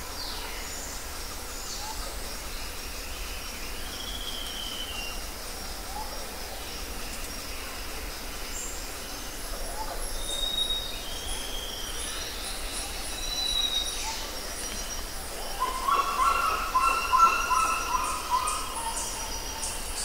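Forest birdsong: several birds give short whistled notes and high chirps over a steady background hiss, with a louder, lower-pitched call for a couple of seconds near the end.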